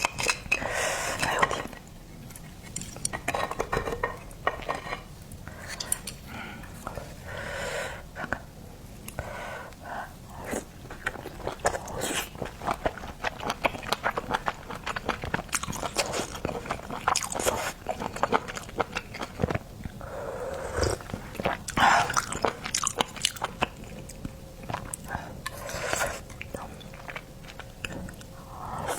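Close-miked eating of seafood: irregular chewing, biting and wet mouth smacks.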